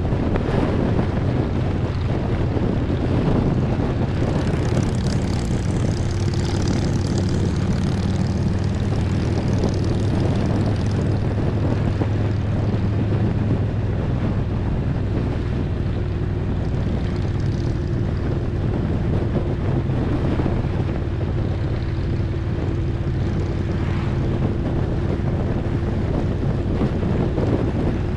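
Harley-Davidson Road Glide's V-twin engine running steadily at cruising speed, its low drone holding an even pitch, with wind rushing over the microphone.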